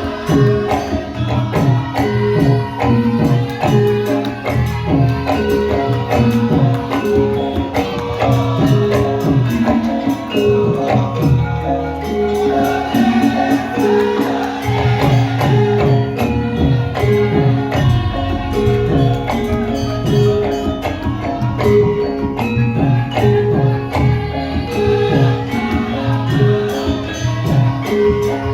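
Javanese gamelan music for lengger dance: a repeating melody on struck pitched percussion over steady drumming, with no break.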